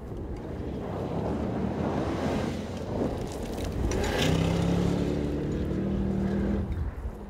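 Supercharged 5.0-litre V8 of a Land Rover Defender 90 P525 driving hard over a dirt field, with rushing wind and tyre noise. About halfway through, the engine settles into a steady high note that it holds for a couple of seconds before fading.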